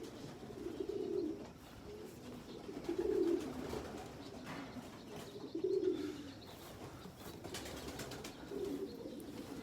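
Racing pigeons cooing, a low warbling coo repeated about every two to three seconds.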